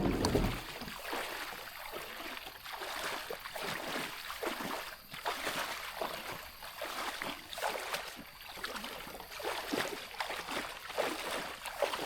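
Creek water splashing and trickling around a kayak, with many small irregular splashes; a brief low rumble at the very start.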